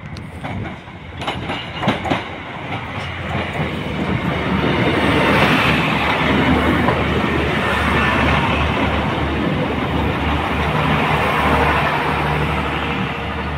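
Northern Ireland Railways diesel multiple unit passing close by: engine hum and wheels clattering on the rails. The sound grows from about four seconds in and stays loud as the carriages go past, easing slightly near the end. A few sharp clicks are heard about a second or two in.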